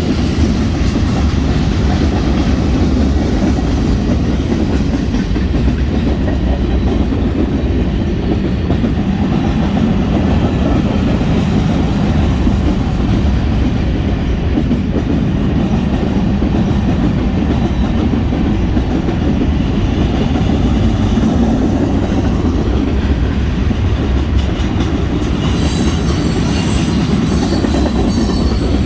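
Freight train cars rolling past close by: a steady heavy rumble with the clickety-clack of wheels over rail joints. A sharper, higher metallic clatter joins in near the end.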